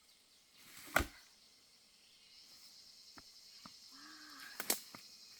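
Two sharp knocks about four seconds apart, with a few fainter clicks between them, over a steady high-pitched insect chirring that sets in partway through.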